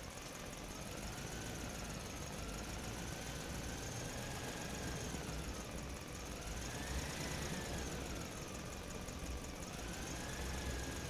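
A toy vehicle's small motor running steadily, its whine slowly wavering in pitch, rising to a peak about seven seconds in and falling back, over a low rumble.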